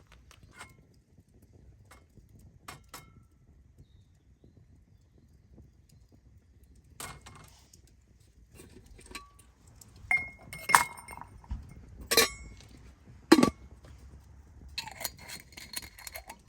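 Scattered clinks and taps of eating utensils against dishes, a few of them ringing briefly. The clinks are sparse at first, then grow louder and closer together in the second half, with the loudest sharp knock near the end.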